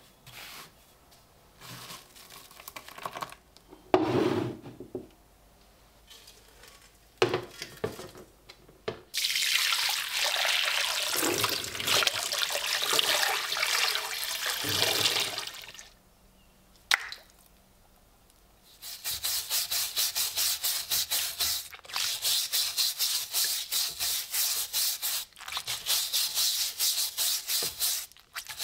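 Scattered knocks and handling noises, then water running for several seconds, then steady back-and-forth scrubbing strokes, about three a second, on a rusty steel helmet during rust removal.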